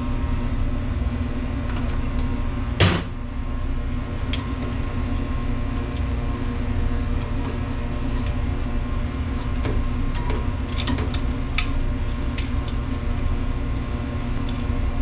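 Single loud metallic clunk about three seconds in, then a few light clicks and taps, from tools and metal parts as the old motor is removed from a commercial dishwasher. A steady low machinery hum runs underneath.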